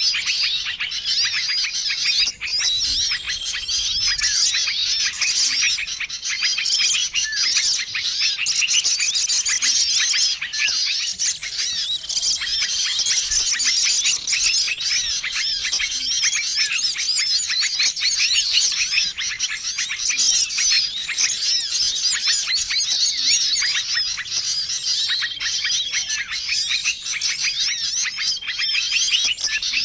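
Bird-lure recording: a dense, unbroken chorus of many small songbirds chirping and twittering at once, with a short steady whistled note recurring every few seconds.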